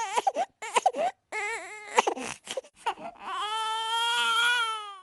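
Crying: short sobbing cries, then one long wail from about three seconds in.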